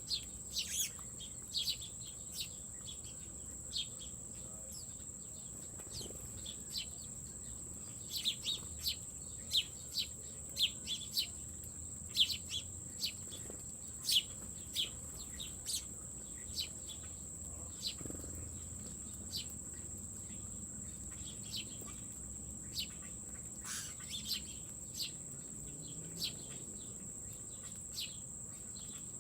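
Small birds giving short, scattered chirps over a steady high-pitched insect drone.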